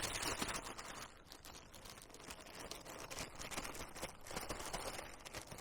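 Plastic bag crinkling and rustling as ground beef is pressed into a patty inside it, with irregular small clicks.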